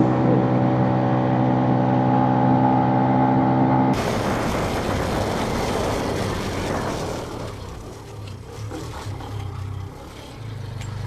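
Benelli BN125 motorcycle engine holding steady revs for about four seconds. Then, after a sudden change, loud wind rush over the microphone with the engine under it. The wind dies away from about seven seconds in as the bike slows, leaving a low engine hum.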